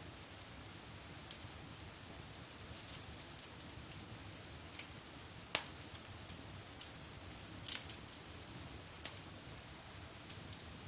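Wood fire in a fireplace crackling: a soft steady hiss with irregular small snaps, one louder pop about halfway through and a brief flurry of crackles soon after.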